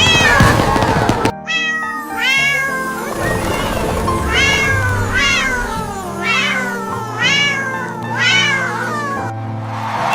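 Domestic cat meowing over background music: a string of short meows, each falling in pitch.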